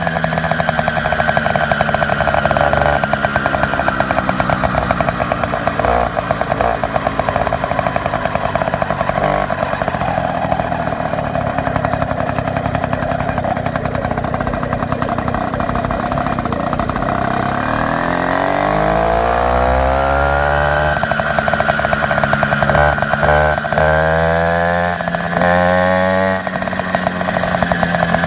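Motorized bicycle's small engine with an upgraded exhaust running at high revs with a steady buzz. A little past halfway the revs drop and climb back up, followed by several quick throttle changes.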